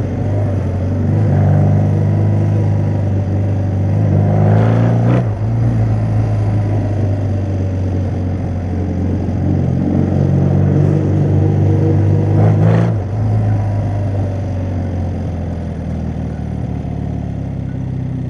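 Motorcycle engine heard from on board while riding. Its revs climb and are cut off sharply twice, about five seconds in and again near thirteen seconds, as the rider shuts the throttle or changes gear. It then runs lower and steadier at an easy pace.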